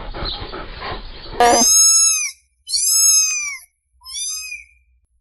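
An animal calling three times in high-pitched, clear-toned calls, each rising then falling in pitch and lasting under a second, with short pauses between. The calls begin about a second and a half in, after a stretch of rumbling background noise.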